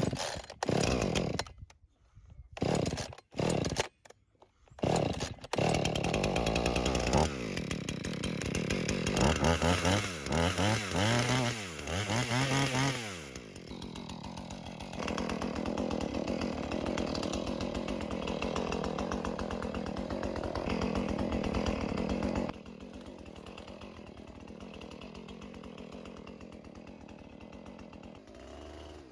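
Two-stroke chainsaw: several short bursts in the first few seconds, then it runs continuously, revving up and down, holds a steady high speed for several seconds and drops to a quieter idle about three quarters of the way through.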